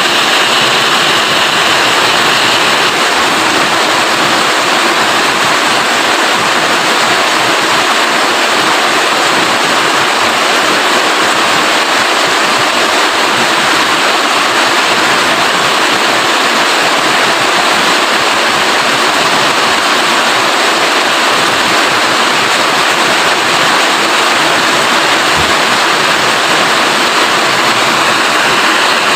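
Steady heavy rain, a loud, even hiss of water falling.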